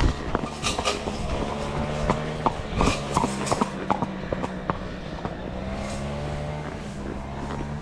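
A horse's hooves stepping on the ground, in irregular knocks that thin out after about four seconds, over a steady engine-like drone.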